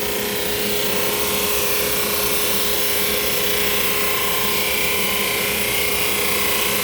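Supermax 19-38 drum sander running steadily: an even motor-and-drum hum with a steady pitched tone under it, while it sands the weathered face off a cedar board.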